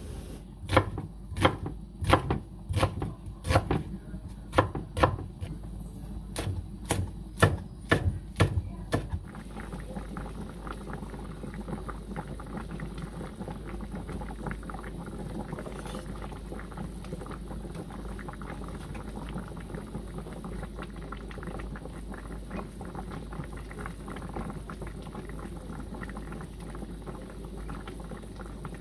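Knife chopping on a cutting board: about fifteen sharp knocks at an unhurried pace, stopping about nine seconds in. Then a steady crackling hiss of food cooking on the stove.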